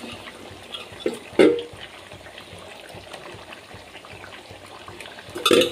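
Chicken frying and sizzling in a pan of onion-tomato masala while it is stirred, with a spoon knocking against the pan about a second and a half in and again, louder, near the end.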